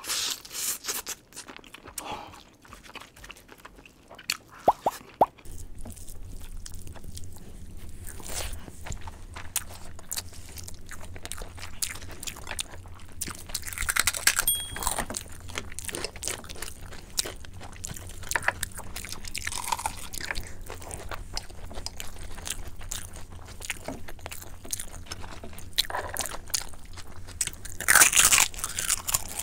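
Close-up eating sounds: chewing and crunching, first on sauced lobster, then, after a cut about five seconds in, on mutton curry and rice eaten by hand, over a steady low hum.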